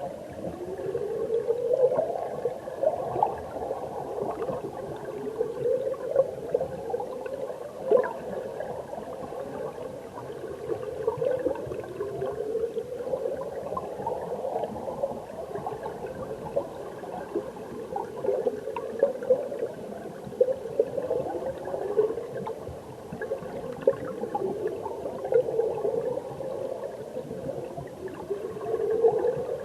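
Mountain stream water gurgling and rushing, heard underwater, with a pulsing sound that rises in pitch every two to three seconds.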